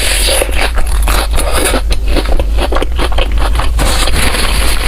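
Close-miked chewing and crunching of bread: a dense run of irregular crackly, scraping clicks over a steady low hum.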